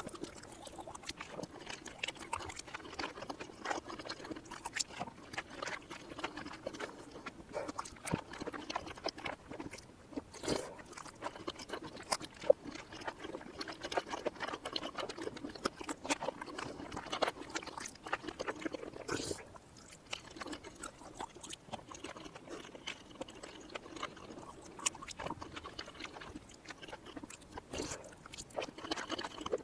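Close-miked ASMR chewing of cheesy mini rice cakes played in reverse: a continuous run of small wet clicks and smacks.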